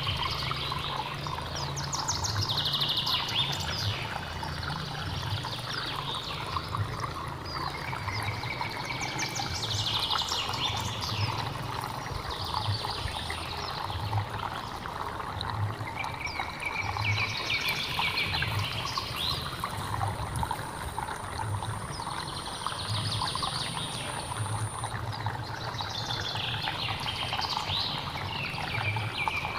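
Flowing stream water running steadily, with birds chirping in short clusters every few seconds over it. A faint thin high tone runs through the middle stretch.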